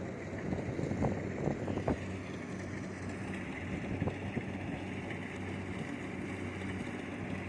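Kubota DC70 Plus combine harvester's diesel engine running steadily with a low hum, with wind on the microphone and a few short knocks in the first two seconds.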